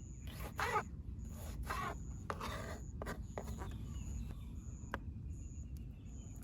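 Short scraping rasps of hands-on food preparation, several at uneven intervals, with an insect's high chirp repeating about once a second.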